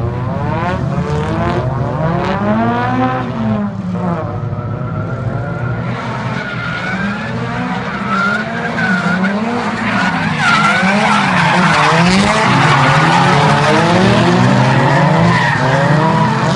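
Nissan S15 Silvia's turbocharged, freshly rebuilt 2.1-litre SR20 engine (Trust T518Z turbo, Artrack S4 exhaust manifold, HKS cams) revving up and down over and over while drifting, with tyres squealing. It grows louder about ten seconds in.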